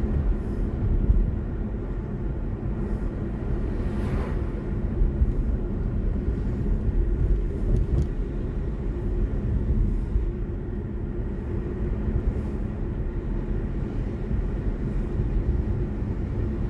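Steady low road and tyre rumble from a BMW i4 M50 electric car on the move, with a brief swell about four seconds in.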